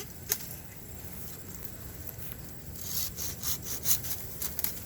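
Bamboo stem being sawn: a single sharp click about a third of a second in, then a run of quick, irregular rasping saw strokes through the second half.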